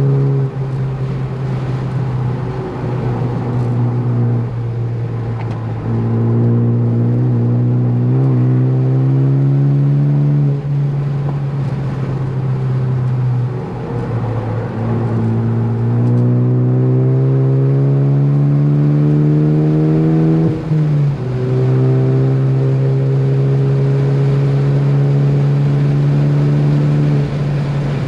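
Ford Focus ST's turbocharged four-cylinder engine pulling hard on track. Its note climbs steadily twice and drops back each time at an upshift or lift, about a third and about three-quarters of the way in, then holds nearly steady before easing near the end.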